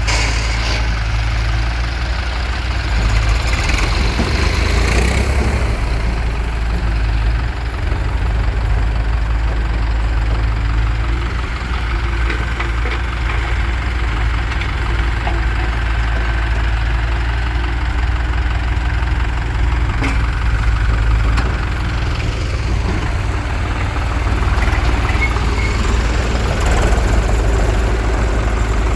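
Diesel engines of farm tractors and a JCB loader running steadily at low revs.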